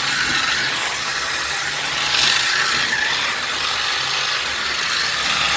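Cheap RC drift truck's electric motor and gear drivetrain running steadily as it is driven, a dense mechanical gear rattle.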